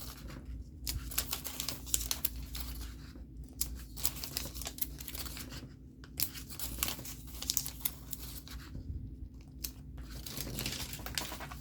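Scratch-off stickers being peeled from their backing sheets and handled, a run of irregular crinkles, small tearing rustles and light clicks.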